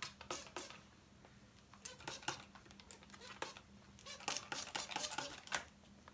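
Hand-pump spray bottle spritzing water onto hair: a series of short hissing sprays with trigger clicks, in two clusters, one about two seconds in and a quicker run from about four seconds in.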